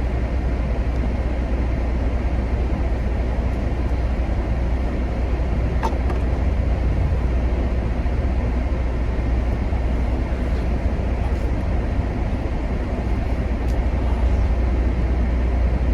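A car running, a steady low rumble, with a faint click about six seconds in.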